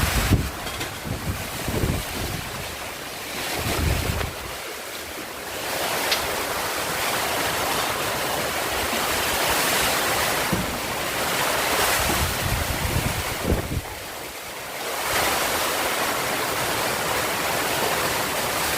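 Strong typhoon wind gusting with the hiss of heavy rain, buffeting the microphone. It eases briefly twice, about a third of the way in and again about three-quarters through, then picks back up.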